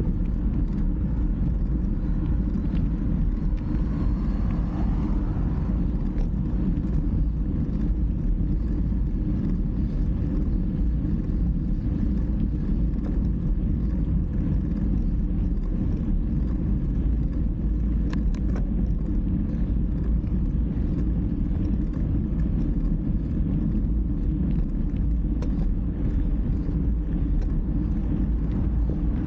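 Steady low rumble of wind and road noise on the microphone while riding a bike.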